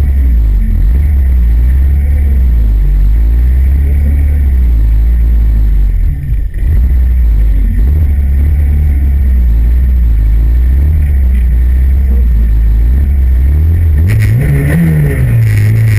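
Competition car engine idling loudly, heard from inside the cabin, its revs wavering, with a short dip about six seconds in and a rev that rises and falls near the end as the car waits stationary at the start line.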